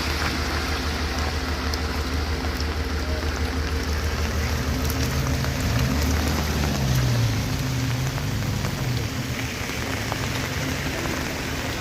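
Truck engine running on a steep climb, a steady low drone under an even hiss, its pitch rising and falling between about five and nine seconds in as it is revved.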